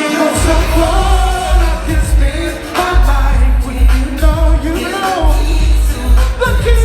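Live R&B music: a singer's melodic, gliding vocal line over a band with a heavy, pulsing bass.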